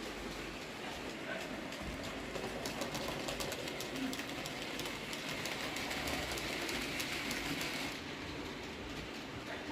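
A train running on rails: steady rolling noise with rapid clicking from the wheels over the track, the clicking thinning out suddenly about eight seconds in.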